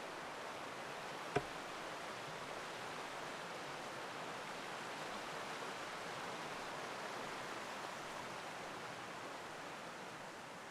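Steady rush of a forest stream flowing over rocks and small waterfalls, easing off slightly near the end. A single sharp click stands out about a second and a half in.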